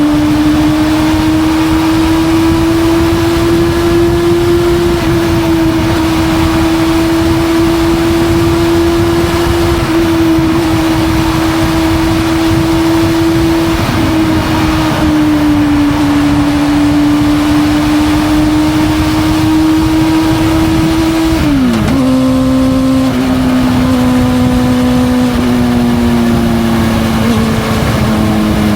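Honda CB400SF Hyper VTEC's inline-four engine running under way through a Yoshimura titanium full-system exhaust, holding a steady pitch that creeps up over the first few seconds. About 21 seconds in the pitch dips sharply and settles lower, then sinks slowly toward the end.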